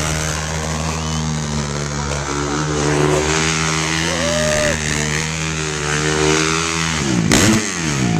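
Dirt bike engine running steadily, with a quick rev that rises and falls about four seconds in. A short rush of noise comes near the end.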